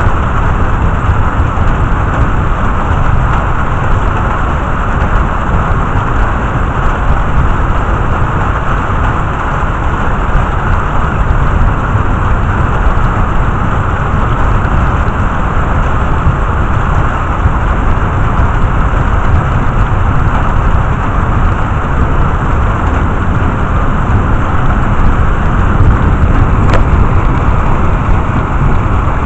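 Heavy thunderstorm rain pouring steadily, with a continuous deep rumble underneath.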